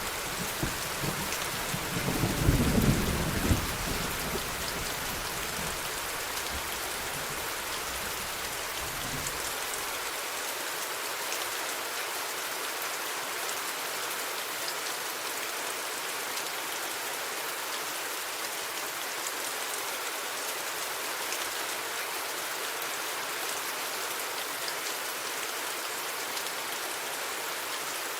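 Steady rain hissing down, with a roll of thunder that rumbles loudest about two to three seconds in and dies away by about ten seconds, leaving rain alone.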